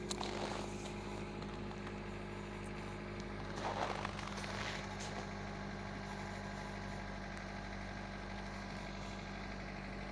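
Car engine idling with a steady hum during a cold start at −16 °C, left running to warm up. Brief crackles can be heard near the start and about four seconds in.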